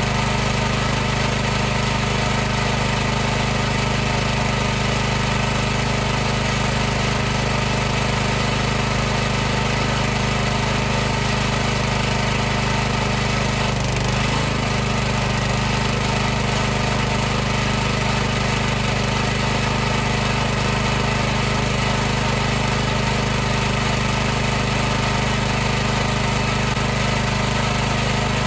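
High-pressure washer running steadily: a constant motor-and-pump hum under a broad hiss, with a brief dip in pitch about halfway through.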